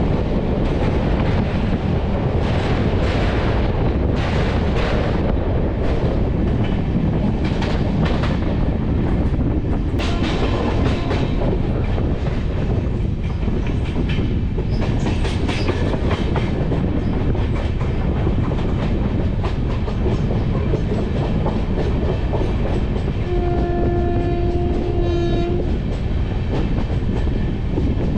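Indian Railways passenger train running on the rails with a steady heavy rumble and wheels clicking over rail joints. A train horn sounds once, a steady two-toned blast of about two seconds, near the end.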